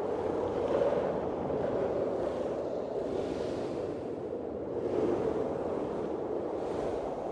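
Blizzard wind blowing in gusts, a steady rushing noise that swells and eases every couple of seconds.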